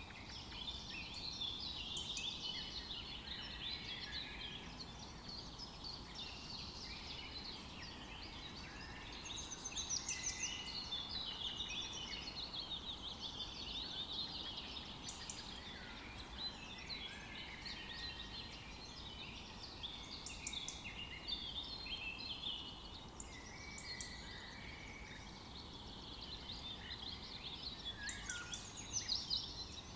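Many small birds chirping and twittering together in a continuous, overlapping chorus.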